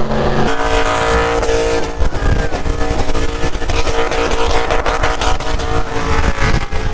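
Truck engine held at high revs, its pitch steady, easing off near the end.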